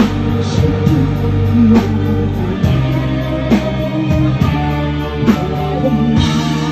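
Live band music: an instrumental passage led by guitar over a steady beat, with no singing.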